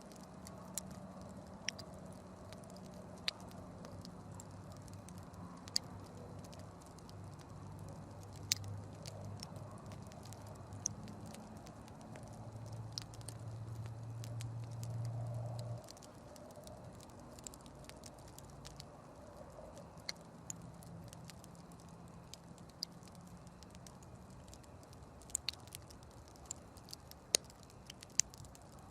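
Wood campfire crackling, with sparse sharp pops scattered through. Underneath runs a low steady hum that grows louder and then cuts off suddenly about sixteen seconds in.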